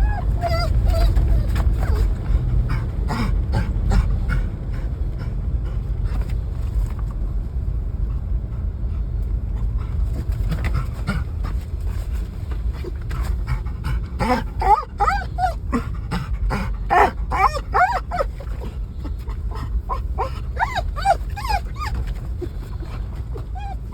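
A dog whining and yipping with excitement over the steady low rumble of a moving car; the high, wavering whines come thick and loud in the second half.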